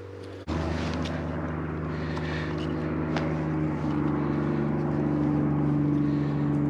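A steady engine drone, low-pitched and even, that starts abruptly about half a second in and holds steady.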